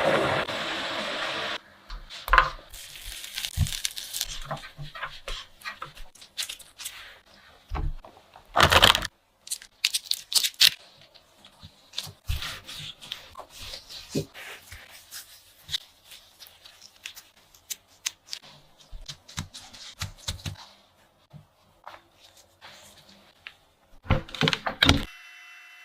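Close-up handling sounds of food preparation: a series of light taps and clicks with a few louder rustling, tearing-like bursts.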